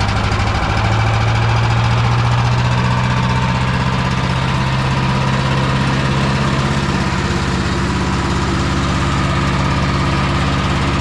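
Champion 338 cc wood chipper shredder's single-cylinder gas engine running steadily, its speed rising a little about half a second in.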